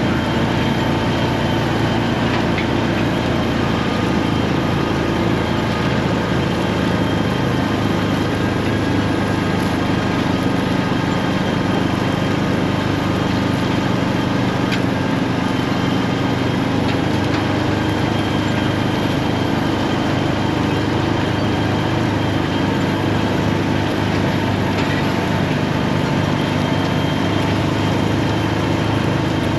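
Farm tractor's diesel engine running steadily while pulling an anhydrous ammonia toolbar across a field.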